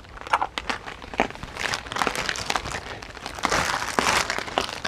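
Plastic packaging crinkling and rustling as it is handled, with irregular small clicks and knocks.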